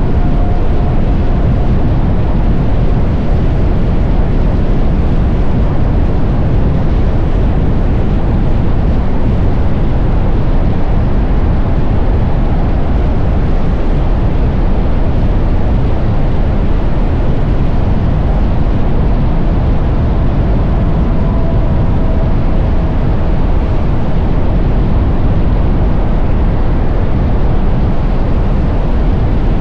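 Steady wind rush and road noise from riding an electric Can-Am Pulse motorcycle, heavy in the lows, with a faint thin tone wavering in and out.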